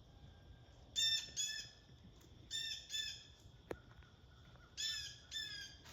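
Blue jay calling: three pairs of harsh, nasal calls, each pair a quick double call, spaced about two seconds apart. A single short tap sounds midway between the calls.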